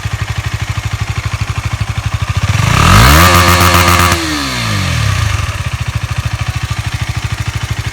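KTM Duke 250's single-cylinder four-stroke engine idling through its stock exhaust, then revved once about two and a half seconds in, held high for about a second and a half, and falling back to idle.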